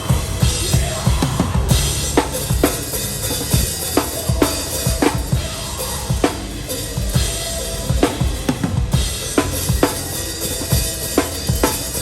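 Live hardcore/metalcore drumming heard from behind the kit: repeated kick drum and snare hits over a wash of Meinl cymbals, with the rest of the band playing underneath.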